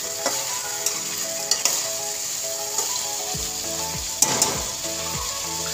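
Mutton and onions sizzling as they are browned in oil and spice paste in a metal pot, stirred with a metal spatula that clicks and scrapes against the pot a few times.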